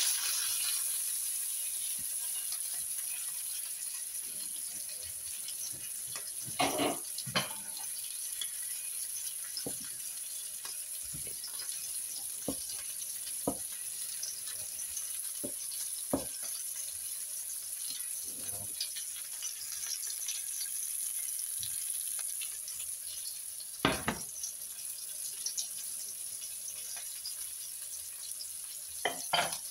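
Beef burger patties sizzling in fat in a frying pan, a steady hiss, with a handful of sharp knocks of a wooden spatula against the pan.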